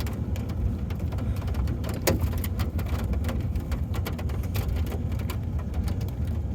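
A vehicle rolling slowly down an icy slope: a steady low rumble of engine and tyres, with scattered crackling and crunching as the tyres break through the softening ice crust. There is one sharper crack about two seconds in.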